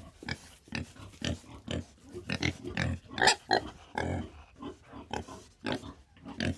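An animal giving a quick, irregular series of short calls, several a second.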